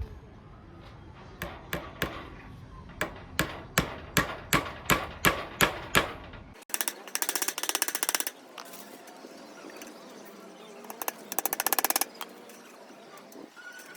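Hammer blows during the build of a homemade BBQ maker: about a dozen sharp strikes, two to three a second, growing louder. After a cut, a fast buzzing rattle comes in two short bursts.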